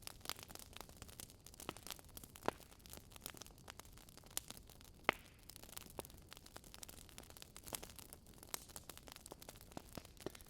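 Wood fire crackling in a fireplace: a faint steady hiss with scattered irregular snaps and pops, two of them louder, about two and a half and five seconds in.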